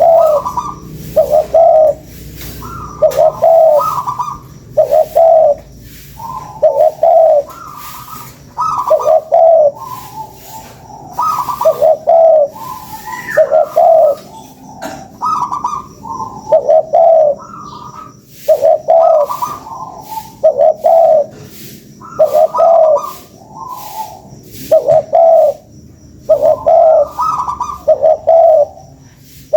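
Spotted dove cooing over and over, each phrase a higher note followed by a deeper, louder coo, at about one phrase every two seconds: a tekukur lure call for drawing in other doves.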